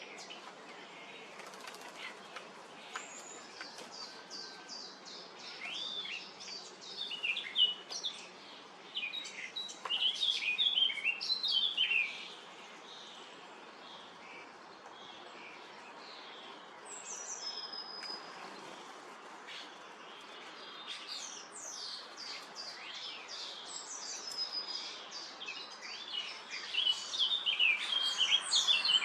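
European starlings chattering with quick whistles, squeaks and rattling clicks, along with wingbeats as birds fly in to feed. The calls come in two busy spells, about six to twelve seconds in and again over the last several seconds.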